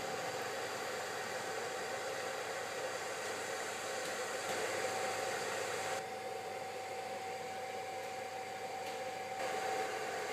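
Hot air top heater of a BGA rework station blowing steadily, a rushing hiss with a faint steady whine, while it heats an Xbox 360 GPU during a reflow profile. About six seconds in the hiss eases slightly and the whine comes through more clearly.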